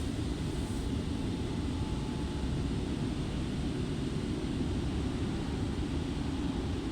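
Car-wash machinery heard from inside the car's cabin as a steady, muffled low rumble. A fainter high hiss fades out about a second in.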